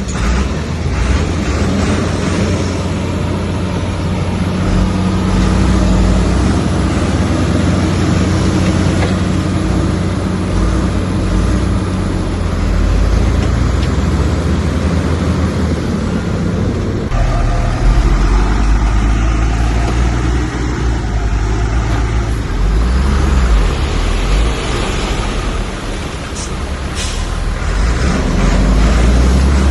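Heavy diesel earthmoving machinery running hard, a deep steady engine rumble that shifts in tone about 17 seconds in.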